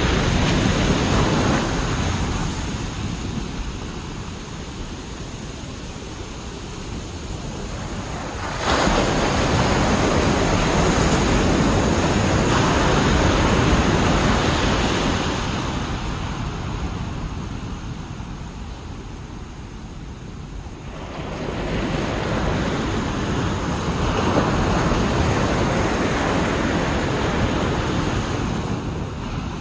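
Ocean waves breaking and washing up a beach in strong wind, with wind buffeting the microphone. The surf swells and fades in slow surges, one breaking suddenly about eight seconds in and another building after a lull near the twenty-second mark.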